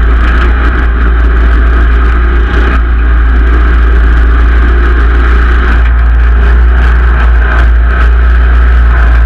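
Simplicity Legacy XL garden tractor engine running steadily and loudly.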